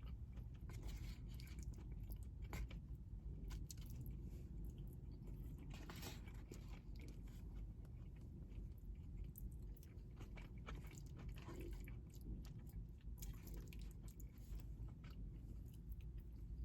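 A person chewing food close to the microphone: faint, wet chewing with scattered small crunches and mouth clicks.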